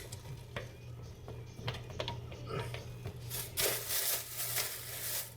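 Tiles being pulled off a backsplash tile sheet by hand: scattered sharp clicks, then a rasping, tearing stretch about three seconds in, over a steady low hum.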